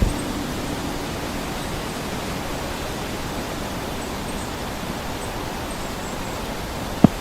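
Steady rushing noise with a few faint high chirps partway through, and a short sharp thump just before the end.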